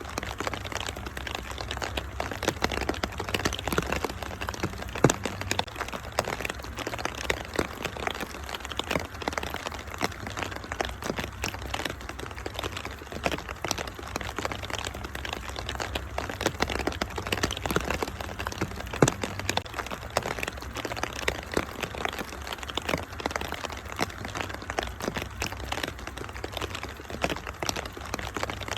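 Wood fire in a fireplace crackling, with a constant run of small snaps and a few louder pops, over a steady hiss of rain and a low rumble.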